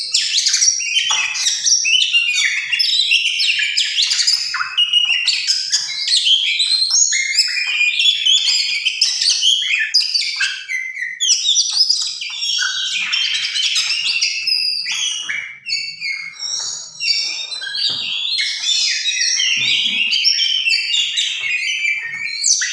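Tame oriental magpie-robin (kacer) singing a rapid, varied song of high whistled and chattering phrases almost without a break, a sign of a bird in strong breeding condition.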